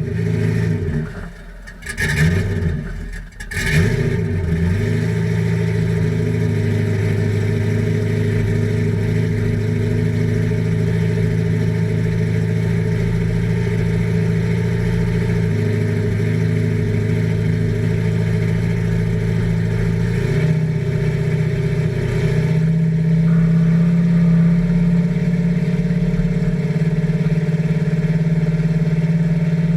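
2000 Camaro SS's LS1 V8 exhaust through true duals with Flowmaster single-chamber mufflers, blipped a few times in the first few seconds, then settling to a steady idle that grows a little louder about two-thirds of the way through.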